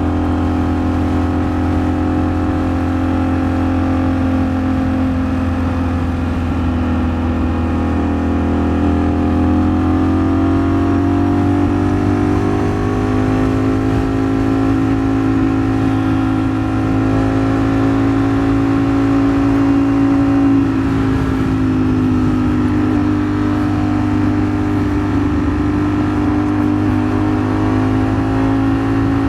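Ducati Streetfighter V4 S's V4 engine running under way at a fairly steady cruise over a constant low rumble. Its note rises gently partway through, eases off for a moment about two-thirds of the way in, and then holds steady.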